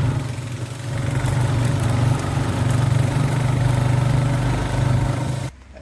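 A tractor engine running steadily at a low, even speed, cutting off abruptly near the end.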